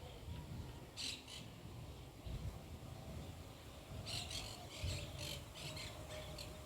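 A bird calling in quick clusters of high chirps, once about a second in and in a longer run from about four seconds, over a low outdoor rumble.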